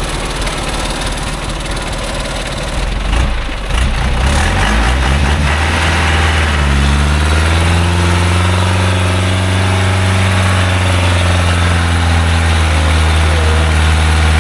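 Loaded small logging truck's engine running, then revving up about four seconds in: its pitch rises slowly, holds high under heavy load, and eases back down near the end.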